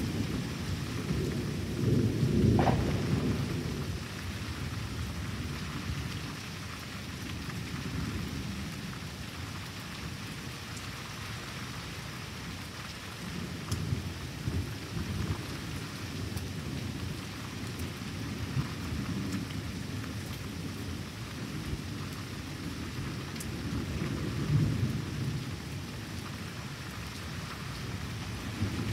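Thunder rumbling over steady rain. The loudest rumble comes about two to three seconds in, and softer rolls of thunder follow later.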